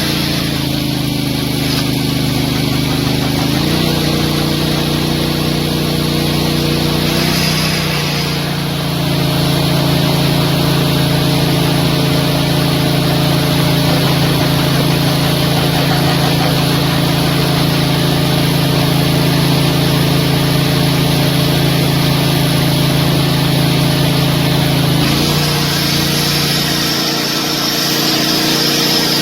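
Engine of heavy construction machinery running steadily. Its pitch steps up about four seconds in, drops lower around eight seconds, and rises again near the end as the revs or load change.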